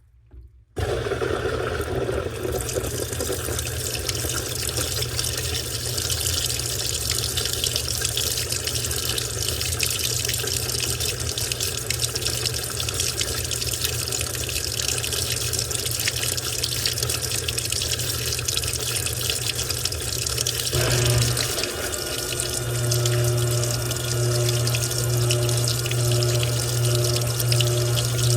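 Washing machine filling with water: the inlet valve opens with a sudden rush of water into the drum that runs on steadily. After about twenty seconds a low pulsing hum joins the water noise.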